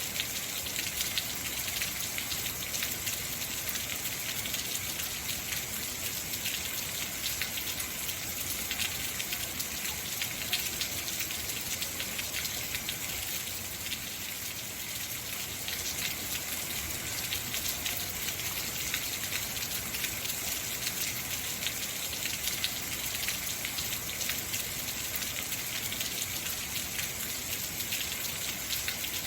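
Heavy rain falling steadily, a dense hiss of many fine drops hitting surfaces.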